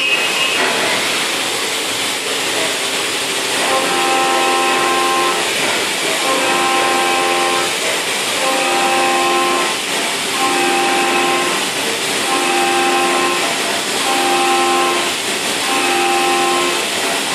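CNC spindle running a 3-flute end mill through 6082 aluminium in a trochoidal toolpath at 8,000 rpm: a steady hiss with a pitched cutting tone that comes in for a second or so and drops out again, about every two seconds, as the cutter engages on each loop of the path.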